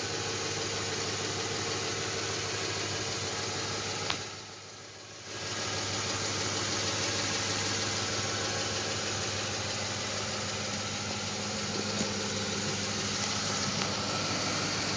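An engine running steadily, a constant drone that drops away for about a second some four seconds in.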